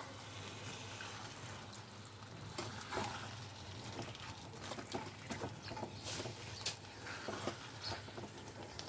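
Marinated chicken in a thick yogurt and nut-paste gravy sizzling and bubbling softly in a non-stick frying pan while being slow-fried. A spatula turns the pieces over, with a few light scrapes and taps against the pan.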